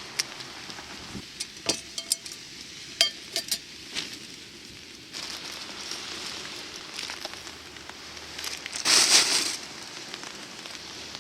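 Sharp clicks and clinks of camp cookware being handled, over a steady crackling background, then a brief loud hiss about nine seconds in.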